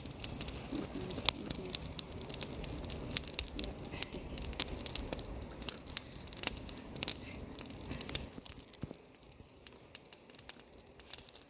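A goat eating from a container of dewormer: scattered small clicks and crackly rustling, thinning out and quieter about eight seconds in.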